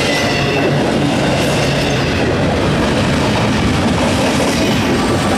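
Loaded double-stack container well cars rolling past at close range. Steel wheels rumble and clatter on the rails in a loud, steady roll.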